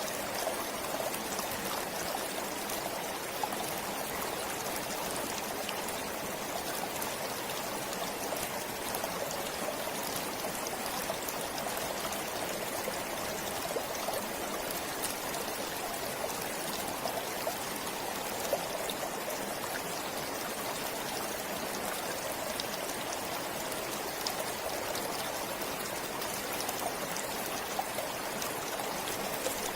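Stream water flowing steadily, with small trickles and drips running through it.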